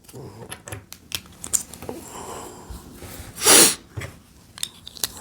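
Small hard plastic Lego pieces clicking and tapping as they are handled and pressed together during a build, with a short, louder whoosh of noise about three and a half seconds in.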